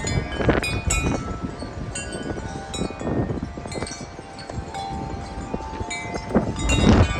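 Wind chimes struck rapidly and ringing at many pitches, tossed by very strong gusting wind. The wind buffets the microphone with a low rumble that swells with a gust near the end.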